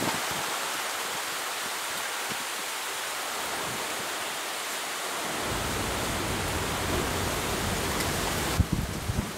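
Steady hiss of heavy rain in a thunderstorm. About halfway through a low rumble joins it, and near the end the sound changes abruptly with a few sharp knocks.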